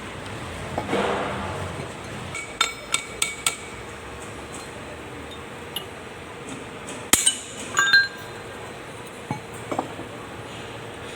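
Metal tools striking and clinking against steel tractor parts: scattered sharp metallic taps, each with a short ring, a group of four about three seconds in and a louder cluster around seven to eight seconds.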